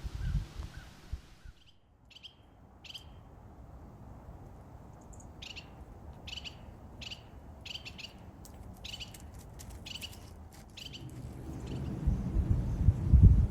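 A wild bird calling over and over, a series of short, sharp calls roughly every half second to second. Near the end, low wind rumble on the microphone rises and becomes the loudest sound.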